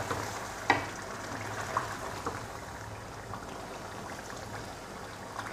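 Beef and potatoes in masala and oil frying gently in a karahi, a soft steady sizzle and bubble. A spatula knocks the pan once about a second in, with a few lighter clicks after.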